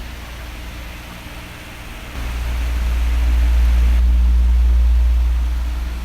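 Electric fan blowing: a steady whooshing hiss of moving air with a deep rumble underneath that swells louder about two seconds in and eases off near the end.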